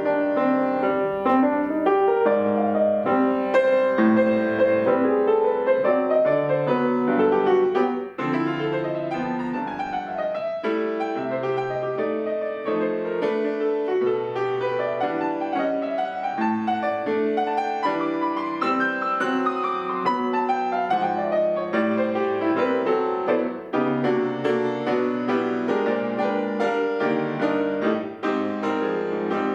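Solo piano playing a flowing piece, chords under a melody, with two sweeping runs that fall in pitch, one about a third of the way in and a longer one past the middle.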